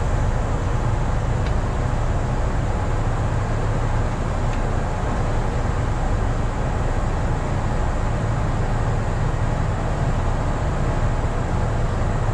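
Kintetsu electric train standing still at a station, its onboard equipment running with a steady low hum and hiss. Two faint ticks come about a second and a half in and again about three seconds later.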